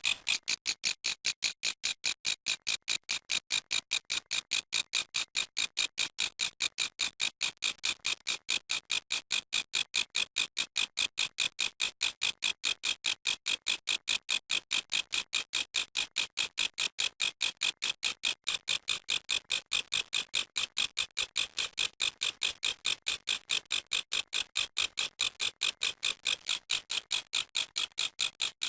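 Grasshopper stridulating: a steady, even train of short high-pitched chirps, about four or five a second.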